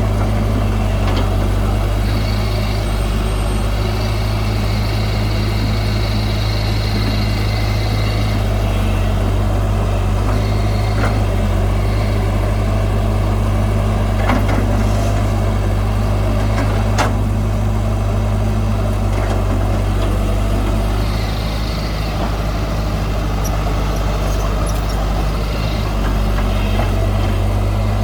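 Heavy diesel earth-moving machinery running steadily, with a couple of sharp metallic knocks about halfway through and a high squeal at times.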